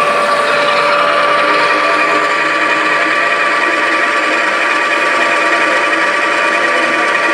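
Lathe running steadily during a straight-turning cut, a constant whine over a hiss.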